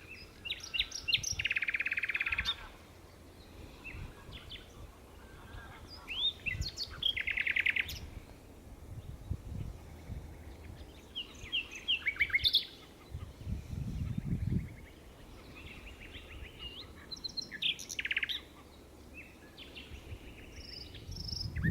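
Common nightingale singing: separate phrases of varied whistled notes, several ending in a fast run of repeated notes, with pauses of a few seconds between phrases.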